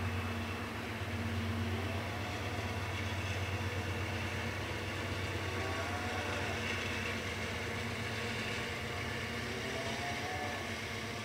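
Freight train cars rolling steadily past on the rails. A low drone is strongest in the first couple of seconds and then fades, with a few faint short squeals later on.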